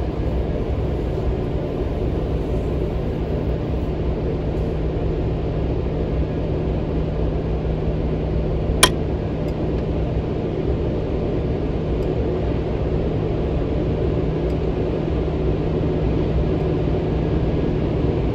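Steady low rumble of a vehicle idling in neutral as it is drawn onto an automatic car wash conveyor, with a steady low hum throughout. A single sharp click about halfway through.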